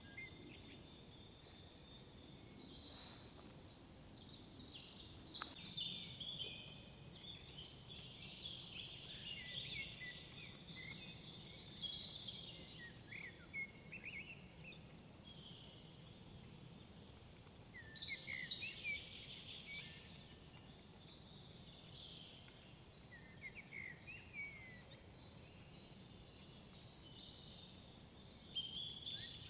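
Several songbirds singing in woodland, overlapping warbled phrases and short chirps with high thin trills, over a faint steady low background hum.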